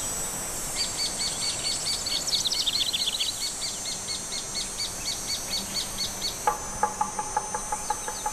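Birds singing: a fast series of high, repeated chirps, then from about six and a half seconds a lower call repeated about three times a second.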